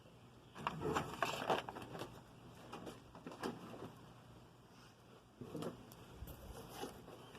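Faint handling noise of small die-cast toy trucks being picked up and set down: scattered light clicks and knocks with brief rustling, in a few clusters.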